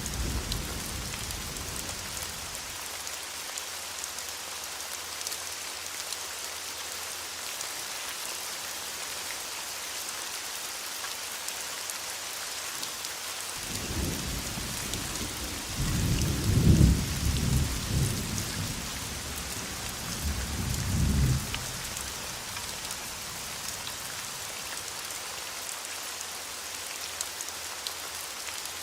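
Thunderstorm: steady rain hissing down, with a low rumble of thunder about halfway through. The rumble swells, peaks twice and dies away over about eight seconds.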